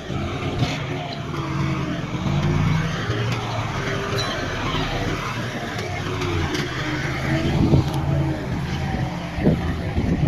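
Heavy construction machinery running, a diesel engine working steadily with its pitch wavering slightly.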